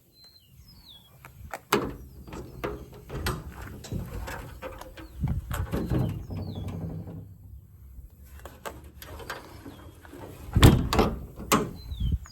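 Series of metal clicks, knocks and rattles, with a loud knock near the end, typical of service-body compartment doors and latches being opened and shut. A bird chirps a few times.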